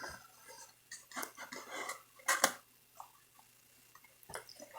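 A cardboard boxed set being handled: scattered light taps and short scraping rustles as it is turned over and opened.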